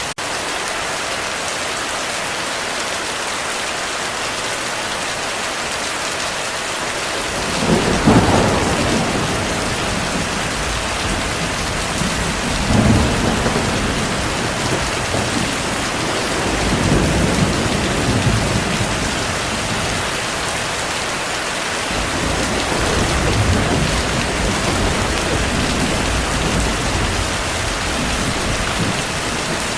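Steady heavy rain, with a thunderclap about a quarter of the way in followed by low rolling rumbles of thunder that swell and fade several times.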